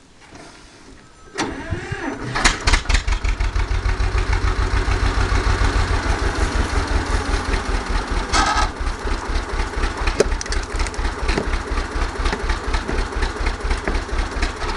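Farm tractor engine starting about a second and a half in, then running with a steady, even beat.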